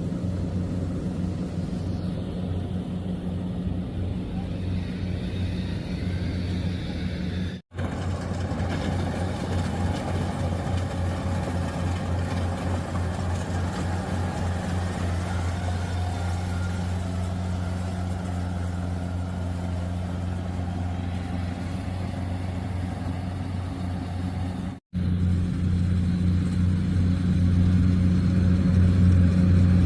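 Rice combine harvester running steadily at work, its engine and machinery giving a low, even hum. The sound drops out for an instant twice, and is louder over the last few seconds.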